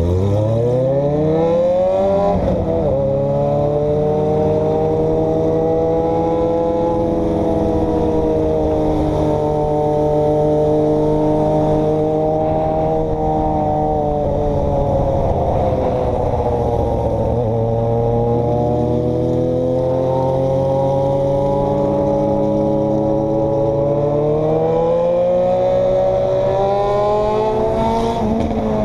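A road vehicle's engine speeds up hard at the start, then runs at a nearly steady speed. The revs dip briefly past the middle and climb again near the end.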